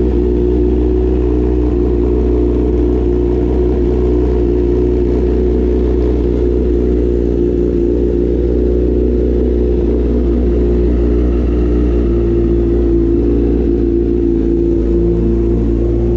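Honda CBR1000RR inline-four engine idling steadily after its first start of the season, its idle speed rising slightly about twelve seconds in.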